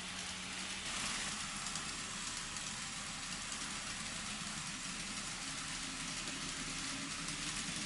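N scale model train running on layout track: a steady rolling rattle of wheels on rail with a faint electric motor hum.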